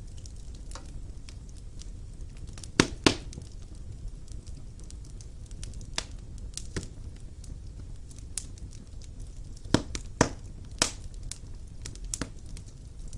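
Fire burning in a fireplace: a low steady rumble of flames with scattered small crackles and a few sharp pops, two close together about three seconds in and three more around ten seconds in.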